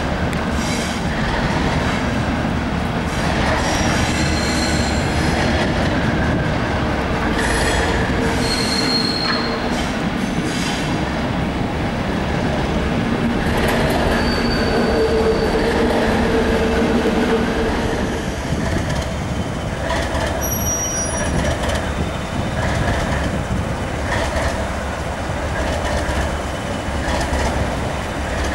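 NIR 80 Class diesel-electric multiple unit running through the station, its diesel engine giving a steady low rumble. Its wheels squeal on the rails in several short high-pitched bouts, with some clickety-clack over rail joints.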